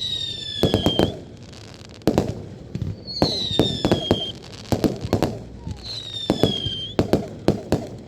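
Fireworks going off: a rapid series of sharp bangs and crackles, with three high whistles, each about a second long and dropping slightly in pitch, about three seconds apart.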